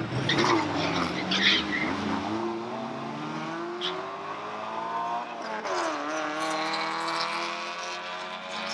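Drag-racing cars accelerating hard down the strip, engine pitch climbing steadily, dipping once about five and a half seconds in as a gear changes, then climbing again.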